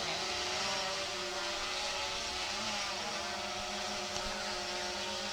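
Camera drone's propellers whining steadily in flight, several tones wavering slightly in pitch.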